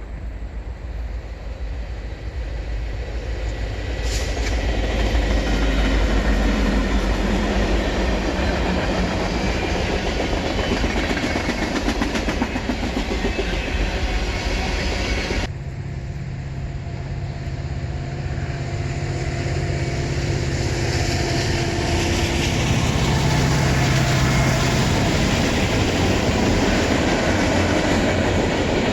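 A train passing close by: the rumble and clickety-clack of wheels on the rails, growing louder over the first few seconds and then running steadily. An abrupt cut about halfway through, then another train getting louder, with the steady drone of its diesel locomotive engines.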